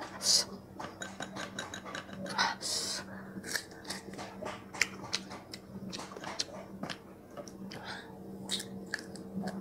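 Close-up crunching and chewing of crisp, unripe green mango slices: a run of irregular sharp crunches and mouth sounds, over a faint steady hum.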